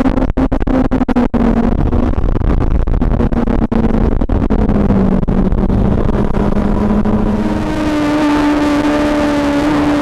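2006 Suzuki GSX-R600's inline-four engine running at speed, its pitch holding steady with small dips and several brief cut-outs in the first few seconds. About seven and a half seconds in, the note changes to a steadier, slightly higher tone.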